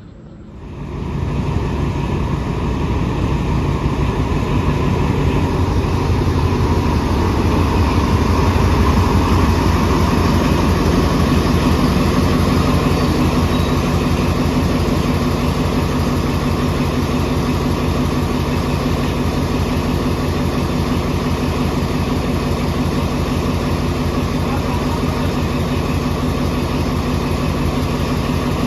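A diesel train engine running steadily, with a low, even engine note. It comes in abruptly about a second in and swells a little around ten seconds.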